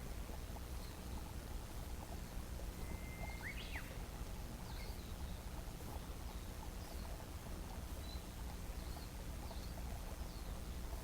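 Birds calling outdoors: short high chirps repeating about once a second, with a brief sweeping call a little before four seconds in, over a steady low background hum.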